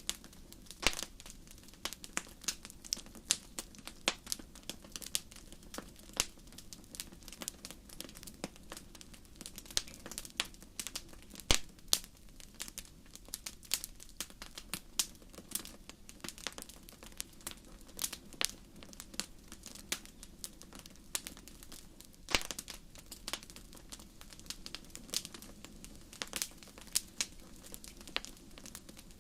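Wood fire crackling: irregular sharp snaps and pops over a low, steady hiss, with a few louder pops.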